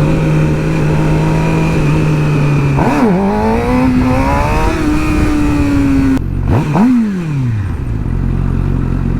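Sport bike engine at a steady cruise, then opened up about three seconds in, its revs climbing for about three seconds, as for a wheelie. The throttle is chopped suddenly, a quick rev falls away, and the engine settles back to a steady lower note.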